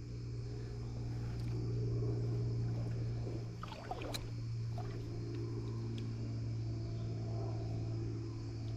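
Steady low engine hum running throughout, with a brief sharper sound about four seconds in.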